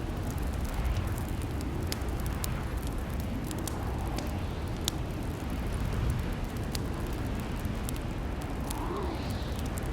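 Log fire crackling in a fireplace: irregular sharp snaps and pops over a steady low rumble of burning.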